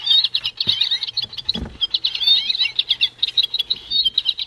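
Recorded American goldfinch song played from a Wild Republic plush bird's sound chip: a rapid, unbroken run of high chirps and twitters, with a couple of soft handling knocks.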